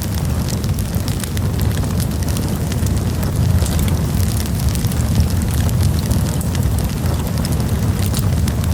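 Campfire of burning wood, with a steady low rumble under frequent sharp crackles and pops.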